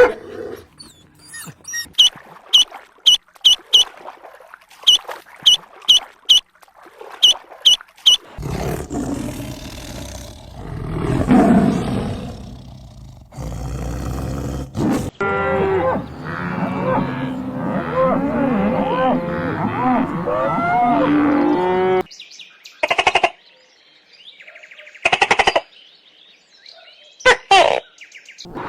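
A run of different animal calls. First come groups of quick high chirps. Then a long low call, followed by many overlapping calls that rise and fall in pitch, and near the end a few short single calls.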